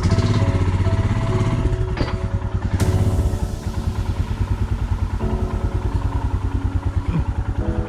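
Royal Enfield Himalayan's single-cylinder engine running on the move, with an even, throbbing exhaust beat.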